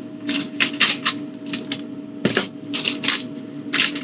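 Irregular clicking and clattering of hard plastic and glass items, bottles and food containers, being shifted about on refrigerator shelves, a dozen or so quick knocks over a steady low hum.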